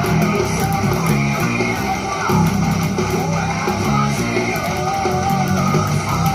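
Electric bass guitar playing a heavy metal bass line over a full band recording of the song, with distorted guitars.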